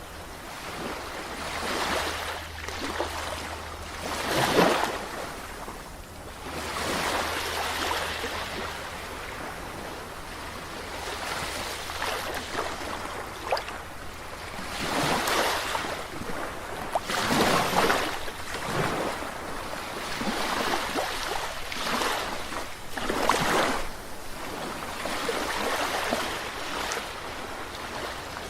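Ocean waves breaking and washing on a shore, swelling and fading every few seconds, with the biggest surges about four and a half seconds in and again past the middle. A steady low hum runs underneath.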